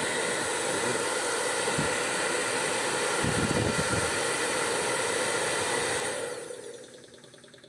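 Hair dryer running steadily on test after its motor's worn carbon brushes were replaced, with a brief low rumble about three seconds in; it is switched off about six seconds in and the whoosh dies away.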